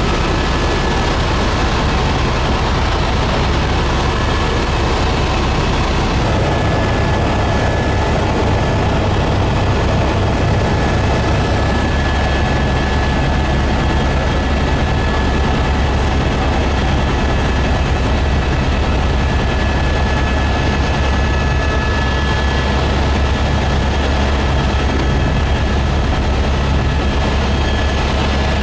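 Helicopter running: the steady, loud drone of the rotor and turbine engine, with a thin, steady high whine above it.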